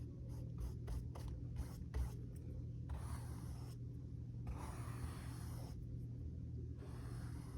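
Hand strokes of a drawing or painting tool on a paper or canvas surface: a run of short scratchy strokes, then several longer rubbing strokes of about a second each, over a faint steady low hum.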